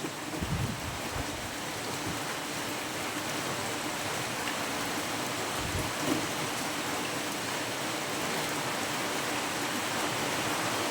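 Steady hiss of heavy rain, with a couple of faint low knocks near the start and about six seconds in.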